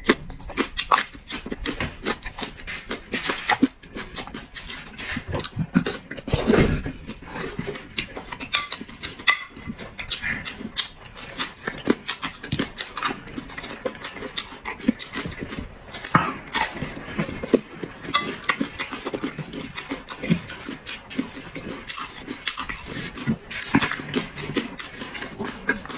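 Close-miked eating sounds: irregular wet chewing, lip-smacking and slurping, with frequent small clicks.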